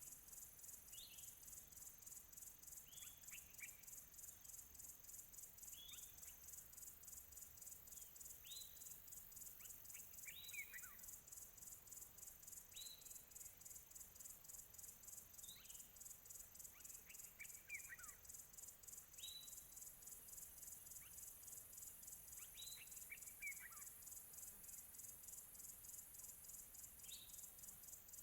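Faint crickets chirping in a steady, fast-pulsing high chorus, with a bird giving short downward-sliding call notes every two to three seconds.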